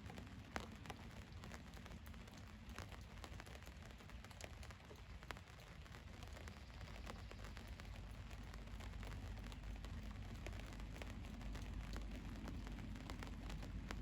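Rain falling on a van's roof: scattered drop ticks over a steady low rumble, with a sharper drop hit near the start and another about five seconds in, growing slightly heavier in the second half.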